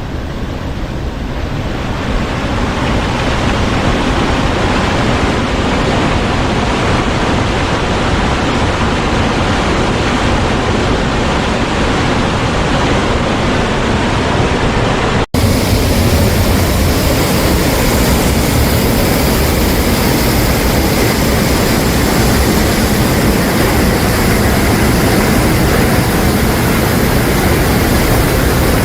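Rushing water of a mountain stream or waterfall, a loud steady roar. It breaks off for an instant about halfway through and resumes a little brighter.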